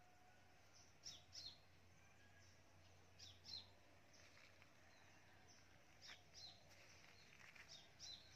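Near silence with faint bird calls: a few pairs of short, high, falling chirps every couple of seconds.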